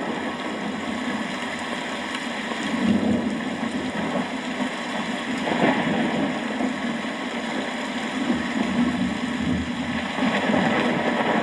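Steady rainfall, swelling louder a few times.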